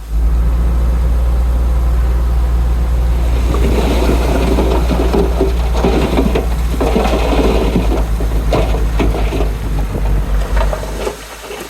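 Heavy earthmoving machinery's diesel engine running with a steady low drone, with bursts of rattling and scraping noise through the middle.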